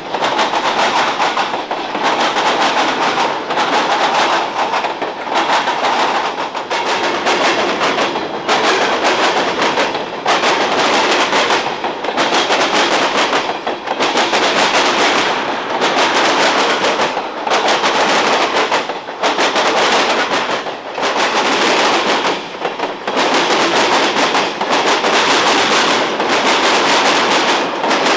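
Freight train cars passing close by, a loud continuous rattle and clatter of wheels on the rails that swells and dips about every two seconds as each car goes by.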